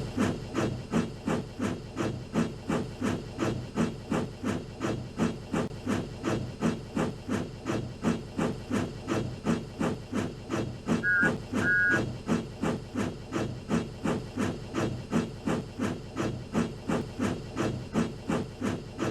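Steam locomotive chuffing steadily, about two to three exhaust beats a second, with a short, steadier burst of sound about halfway through.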